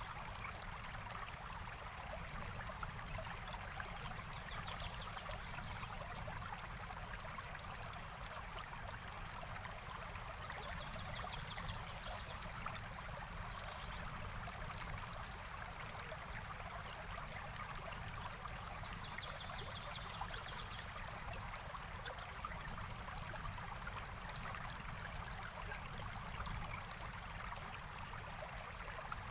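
A forest stream flowing steadily, an even rushing of water, with a bird's faint trill a few times.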